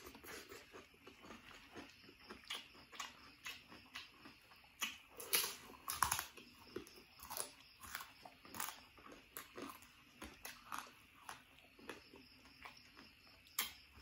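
A person chewing crunchy food close to the microphone: an uneven run of short crisp crunches, loudest in a cluster about five to six seconds in.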